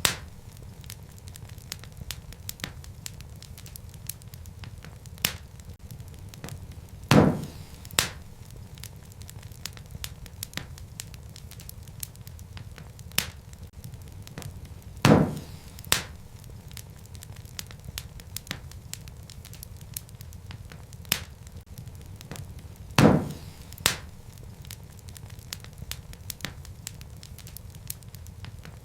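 Wood fire crackling in a fireplace over a steady low rumble of flames, with many small crackles. A sharp, louder pop comes three times, about eight seconds apart, each followed by a smaller pop under a second later.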